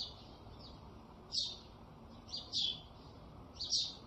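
Small songbirds chirping: short, high chirps about once a second, some in quick pairs.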